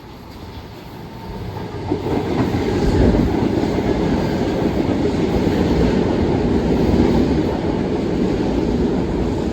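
A Long Island Rail Road train approaching and running past, growing louder over the first two or three seconds and then holding steady and loud.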